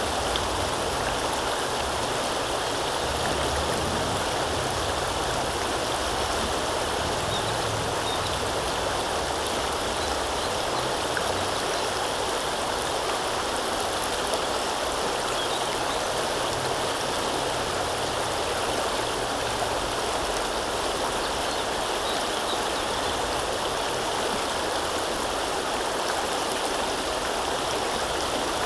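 River water flowing steadily, an even rushing and gurgling with no breaks.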